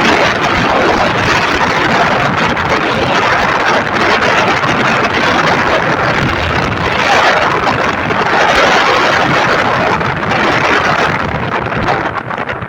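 Wind rushing over the microphone on a motorcycle moving at speed, a steady loud roar of air and road noise with no distinct engine note. It eases off near the end.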